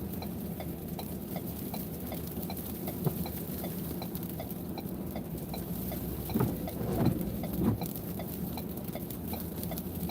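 Vehicle cabin hum from an idling engine, with a light ticking repeating at an even pace, typical of a hazard-flasher relay. A few muffled knocks and rustles come about six to eight seconds in.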